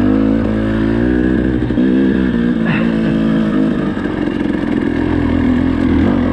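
Dirt bike engine revving up and down under throttle, its pitch wavering for the first two seconds, then running steadier at a lower pitch.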